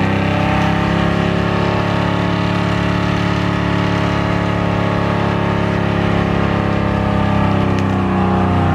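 Third-generation Chevrolet Camaro doing a burnout: its engine held at steady high revs while the rear tyres spin on the pavement.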